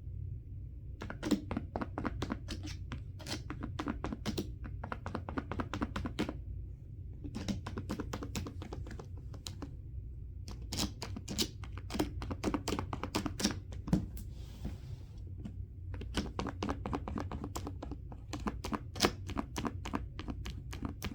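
Runs of rapid light clicking and tapping as small objects are handled close by, in bursts of a few seconds with short pauses, over a steady low hum.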